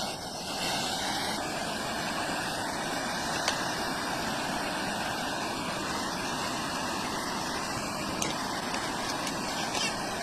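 Air-conditioning condensing unit running: its fan and compressor give a steady, even whooshing noise, with a couple of faint clicks.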